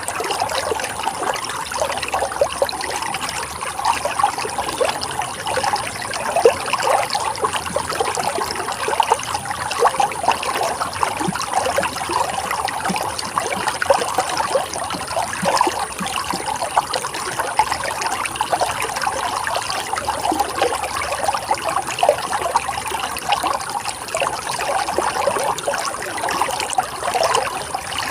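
Running water flowing and splashing steadily, a continuous babbling trickle with many small quick splashes.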